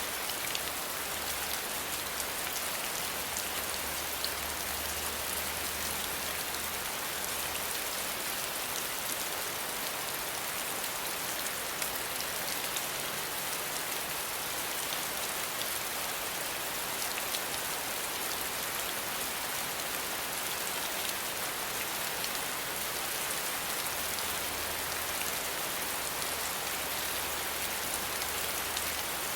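Steady rain falling: an even, dense hiss of many drops, flecked with the small ticks of single drops striking a surface, holding at one level throughout.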